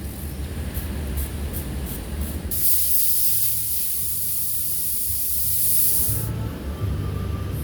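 Paint spray gun spraying: a steady, high-pitched hiss that starts a few seconds in and cuts off suddenly about four seconds later.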